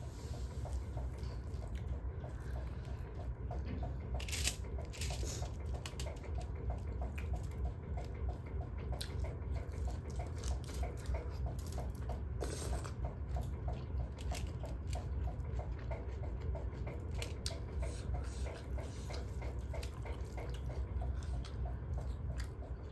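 A person chewing and eating close to the microphone: wet, squishy mouth sounds and smacks with scattered small clicks, over a steady low hum.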